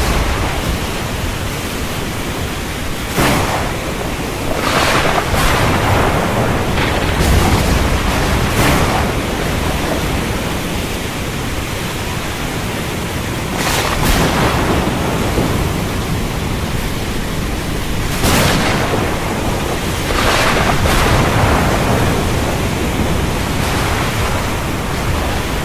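Thunderstorm: a steady rush of heavy rain, broken every few seconds by short, sharp bursts of noise.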